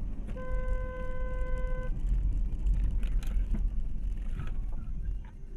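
Steady low rumble of a car driving, with one steady horn honk about a second and a half long near the start, followed by a few faint knocks.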